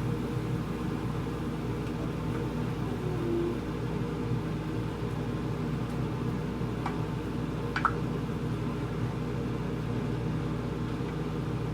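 Steady low mechanical hum of a kitchen appliance motor or fan running, with a couple of faint clicks about seven and eight seconds in.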